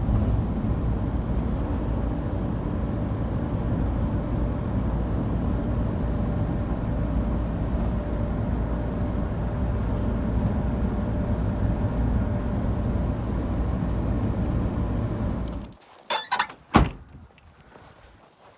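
Steady road and engine noise of a Ford Transit van on the move, which cuts off abruptly near the end. A few sharp clicks and one loud knock follow.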